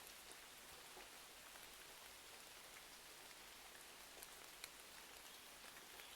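Soft, steady rain hiss, with scattered faint ticks and small pops.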